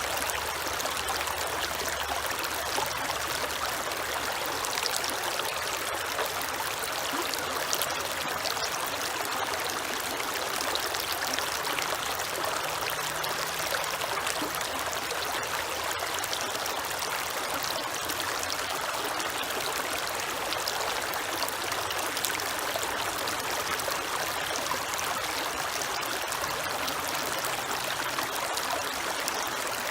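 Creek water flowing steadily, an even trickling rush with no pauses.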